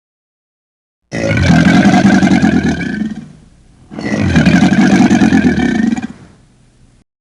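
A large animal gives two long, low, loud calls of about two seconds each, with a short pause between them.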